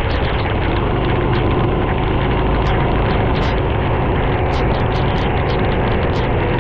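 Racing kart engine running at a fairly steady speed, heard onboard, with short sharp crackles from about two and a half seconds in.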